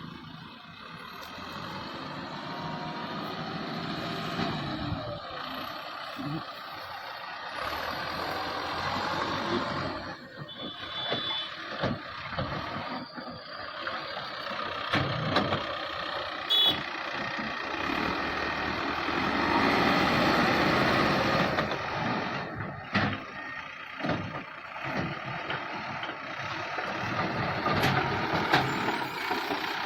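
Tractor engine running hard under load, broken by several abrupt cuts, with a couple of brief high beeps partway through.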